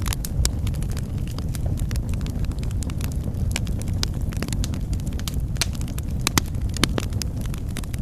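Wood fire crackling in a fireplace: a steady low rumble of flames with frequent irregular pops and snaps, a couple of sharper pops near the end.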